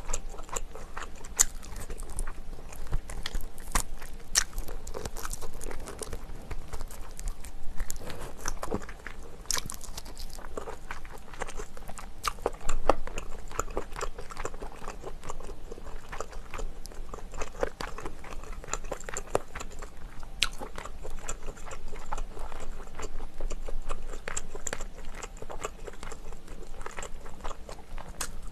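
Close-miked eating of spicy braised chicken: steady chewing and biting with many small wet mouth clicks and smacks, irregular and continuous.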